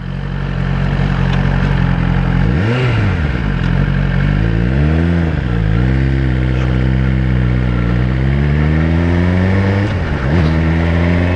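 Suzuki GSX-R1000 inline-four with a Yoshimura exhaust, ridden on the road. The revs briefly rise and fall three times as the throttle is worked, then climb steadily near the end.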